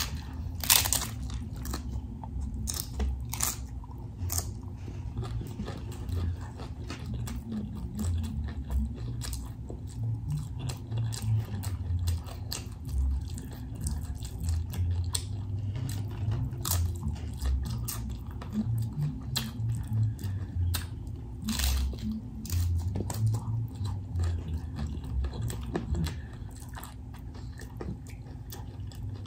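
Chewing and biting into a hard-shell corn taco: repeated crisp crunches of the fried shell over wet chewing, with a few sharper, louder crunches among them.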